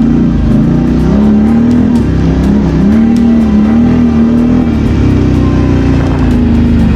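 Quad bike (ATV) engine running under throttle, the revs rising and falling repeatedly as it is ridden, then settling steadier near the end.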